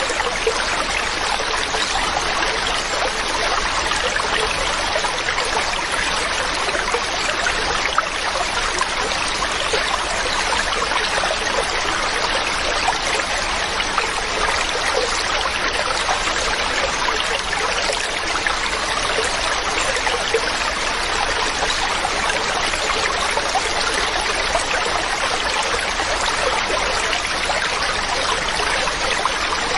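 Mountain stream running over rocks: steady, unbroken rushing and splashing of flowing water.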